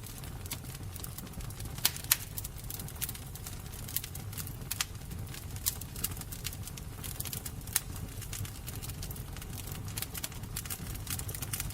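Fire crackling: irregular sharp pops and snaps, several a second, over a low steady rumble, with a louder pair of pops about two seconds in.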